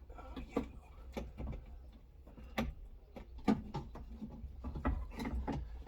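Scattered light clicks and knocks of tools and metal parts being handled inside a car door while a window regulator is bolted in, over a low steady hum.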